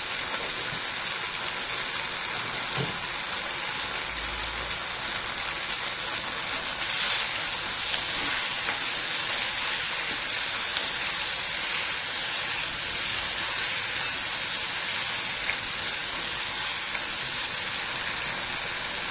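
Potato pieces in a tomato and soy sauce sizzling in an aluminium kadai over a gas flame: a steady, even hiss.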